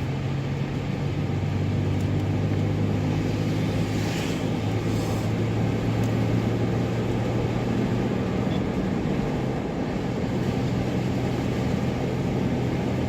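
Car engine and road noise heard from inside the cabin while driving on a snowy road: a steady low drone with a slight shift in pitch here and there, and a brief burst of hiss about four seconds in.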